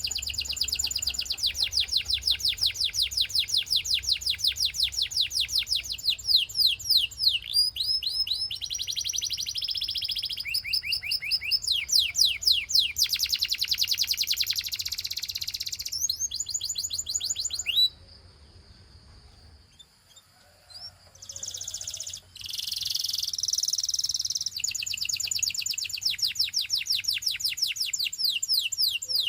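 Canary singing: long, fast trills of rapidly repeated high notes, changing from one rolling phrase to the next. The song breaks off for a few seconds about two-thirds of the way through, then resumes with more trills.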